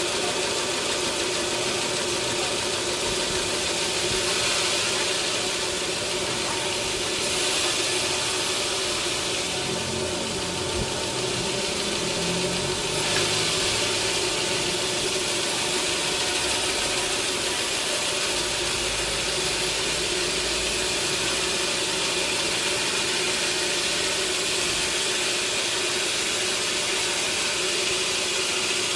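Sawmill machinery running steadily: a constant motor hum under an even hiss.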